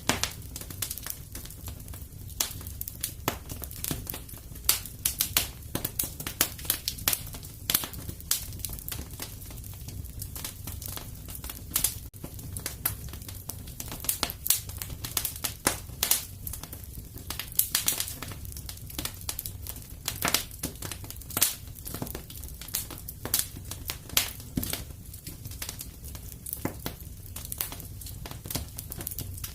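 Wood fire crackling in a fireplace, with frequent irregular sharp pops over a low steady rumble.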